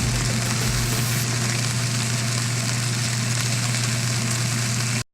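Pork belly sizzling in a frying pan: a steady sizzle over a constant low hum, cutting off abruptly near the end.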